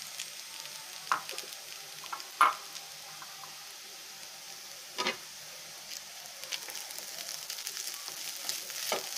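Crushed cooked chicken and sautéed onion sizzling in oil in a pan and being stirred, a steady frying hiss. A utensil knocks sharply against the pan four times, and the stirring gets busier in the last few seconds.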